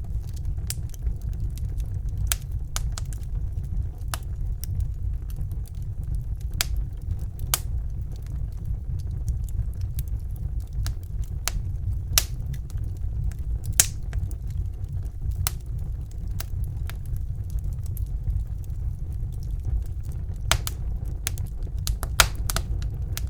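Wood fire burning in a fireplace: a steady low rumble of flames with sharp crackles and pops at irregular intervals, a couple of louder pops about midway and near the end.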